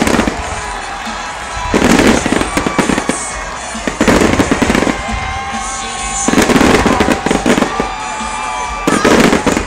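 Fireworks display: four dense volleys of rapid bangs and crackling shell bursts, roughly two seconds apart, over a steady background.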